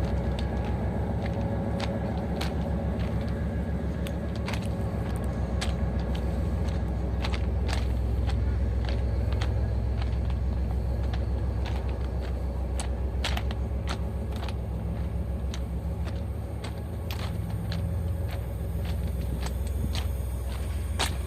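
Diesel train running, heard from aboard: a steady low engine drone and rumble, with frequent irregular clicks and rattles throughout.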